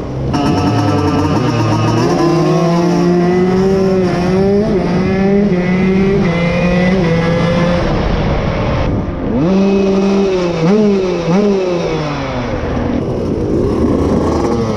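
KTM SX 150 two-stroke single-cylinder motocross engine being ridden hard. Its pitch climbs under throttle and drops sharply with gear changes and throttle-offs, with a brief lull about nine seconds in.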